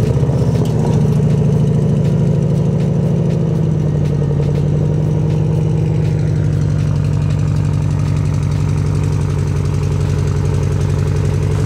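2020 Audi S8's twin-turbo 4.0-litre V8 cold-starting on its stock exhaust. It catches suddenly with no starter cranking heard, its revs flare briefly and ease down over the first second or so, then it settles into a steady idle.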